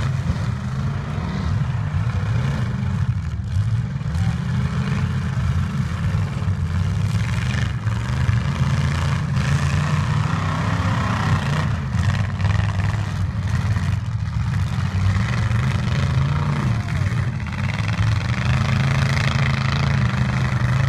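Demolition-derby truck engines running and revving, their pitch rising and falling over a steady din.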